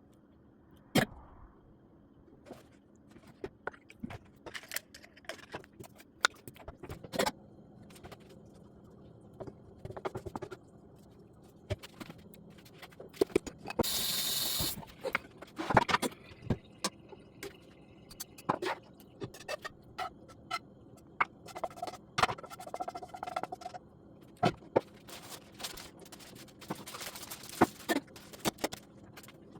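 Irregular knocks, taps and scrapes of objects being handled, some sharp and loud, with a short hiss about fourteen seconds in.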